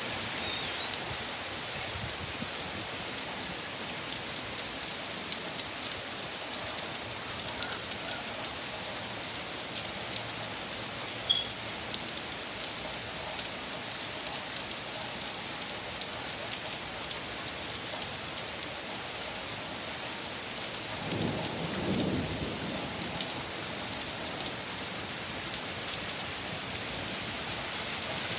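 Heavy thunderstorm rain falling steadily, with scattered sharp drop hits and a brief low rumble of thunder about three quarters of the way through.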